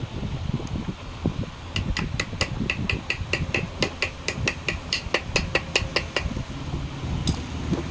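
A quick run of sharp metallic taps or clicks, about five a second, starting a couple of seconds in and lasting about four seconds, over a steady low hum.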